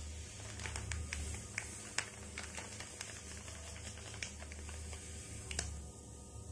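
Hot ghee in a pan sizzling and crackling with many sharp pops as milk powder is poured in and starts to fry.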